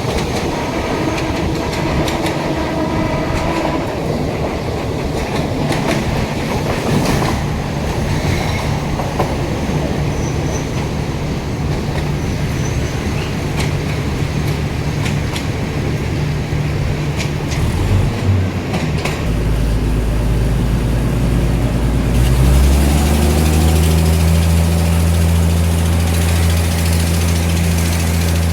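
Inside a moving Thai passenger train: wheels running on the rails, with a steady low engine hum. Around two-thirds of the way through, the engine note rises in pitch and grows louder, and it holds there to the end.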